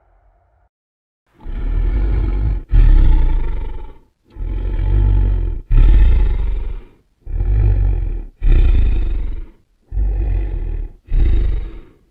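Dragon creature sound effect: after a moment of silence, a run of eight short, deep roars in four pairs, the second of each pair starting abruptly and louder.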